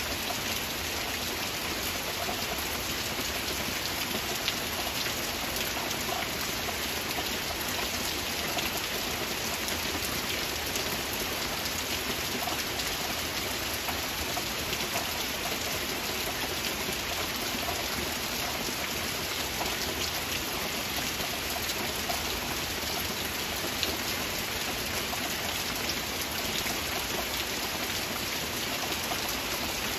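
Heavy rain falling steadily: a dense, even hiss of rain on surfaces, flecked with many fine drop ticks.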